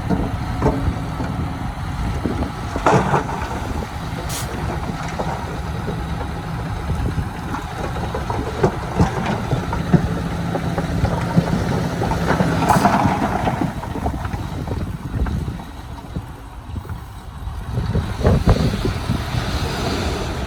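Heavy diesel engine of earthmoving machinery running with a steady low drone, with scattered metallic clanks and knocks. It eases off briefly in the second half, then picks up again near the end.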